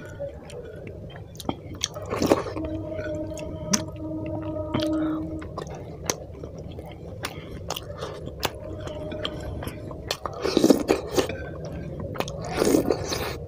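Close-up eating sounds: chewing with many wet mouth clicks and smacks, and the squish of rice mixed by hand into egg curry gravy. A few louder wet bursts come about two seconds in and twice near the end.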